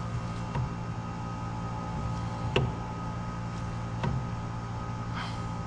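Four light metallic clicks and knocks over a steady hum, the loudest about two and a half seconds in: the differential carrier, fitted with setup bearings, being shifted in the Salisbury housing to check its end float.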